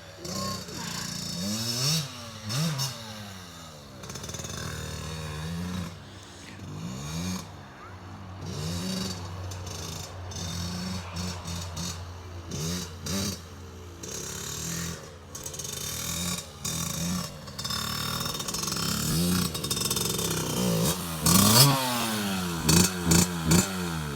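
Small dirt bike engine revving up and down over and over, its pitch rising and falling with each twist of the throttle, loudest near the end.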